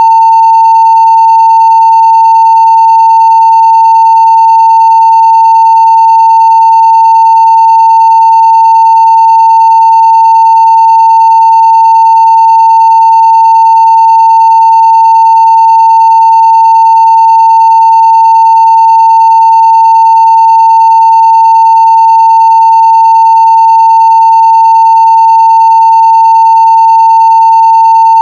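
A 900 Hz sine-wave test tone at full scale (0 dB), one loud, unbroken pitch held perfectly steady.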